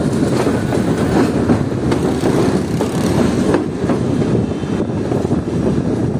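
Passenger train running along the track: a steady rumble of wheels on rails, with scattered clicks from the rail joints.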